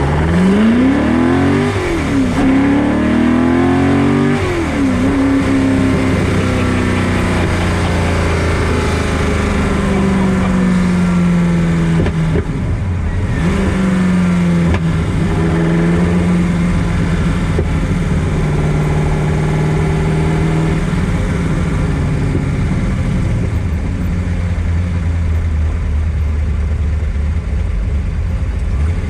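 Superformance Ford GT40's Roush 427 V8 accelerating hard from the passenger seat, revs climbing steeply and dropping back at two upshifts in the first few seconds. It then holds a steady cruise with a brief dip about halfway, and eases to lower revs for the last several seconds.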